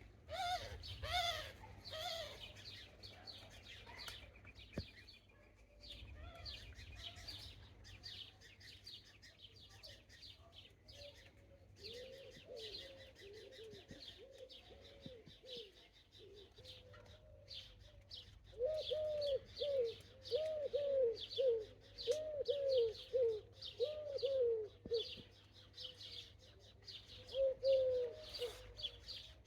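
Garden birdsong after rain: small songbirds chirping in quick high notes throughout, with a pigeon cooing in series of low, evenly repeated notes, most steadily in the second half.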